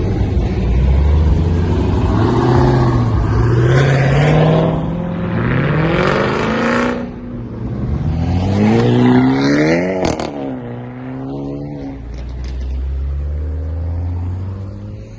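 A high-performance car engine accelerating hard, its pitch climbing in three pulls and dropping between them as it shifts up. After the last pull, about ten seconds in, it settles to a lower, steady rumble.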